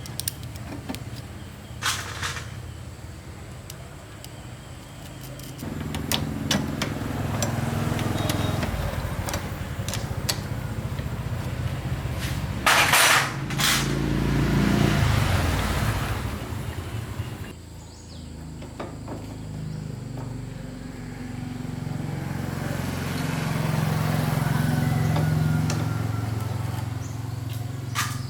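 Small motorcycle engine running, rising and falling in speed, with a short dip partway through and scattered clicks and knocks.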